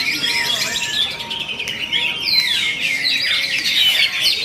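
Cucak hijau (green leafbird) singing a continuous, rapid song of varied chirps and whistles, full of quick rising and falling notes.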